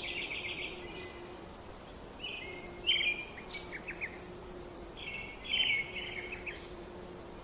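A songbird singing short phrases of chirps and rapid trills, repeated three times with pauses of a second or more between them, over a faint steady low hum.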